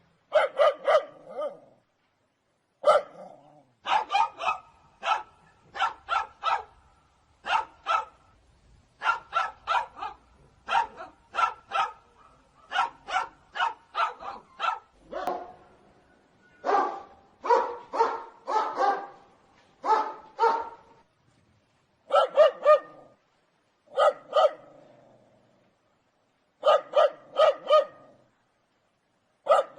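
Dogs barking in quick runs of two to four sharp barks, the runs separated by short silences; the barks change in pitch and character from run to run, as if several dogs.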